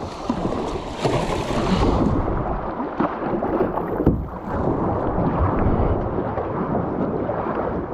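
Water rushing and splashing around a kayak, with a few knocks along the way.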